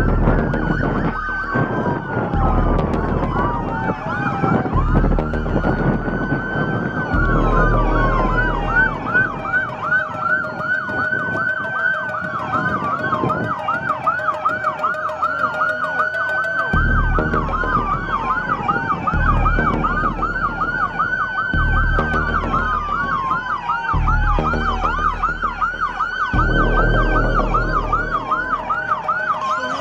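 Several emergency vehicle sirens sounding together: slow rising-and-falling wails overlapping a fast yelping warble, over a low rumble that comes and goes.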